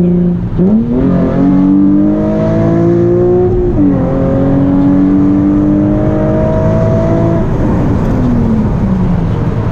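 Nissan 350Z Nismo V6 through a Tomei exhaust, accelerating hard. The engine note climbs, drops suddenly at an upshift about four seconds in, climbs again through the next gear, then falls away as the throttle comes off near the end.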